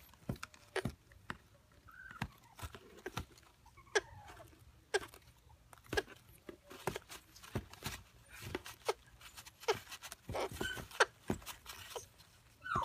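Baby African grey parrots making a run of sharp clicks with a few short whistled calls, one sliding down in pitch near the end.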